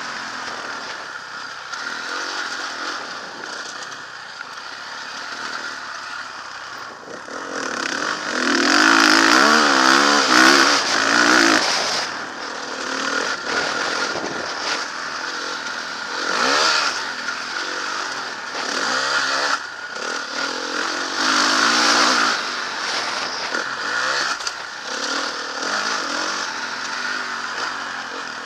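Motocross bike engine revving and easing off repeatedly as it is ridden, the pitch rising and falling over and over, loudest from about eight to twelve seconds in.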